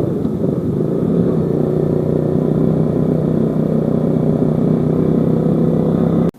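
Motorcycle engine running steadily while riding, mixed with road and wind noise; it cuts off suddenly near the end.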